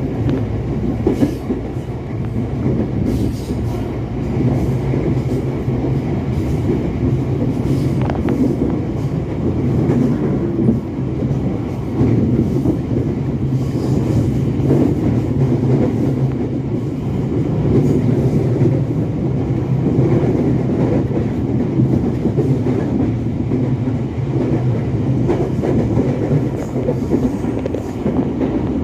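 Electric commuter train running along the track, heard from inside the passenger car: a steady low rumble with light clatter of the wheels over the rails.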